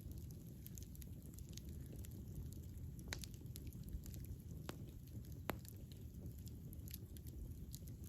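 Wood fire burning with a soft low rumble and scattered sharp crackles and pops, the loudest three coming about three, four and a half and five and a half seconds in.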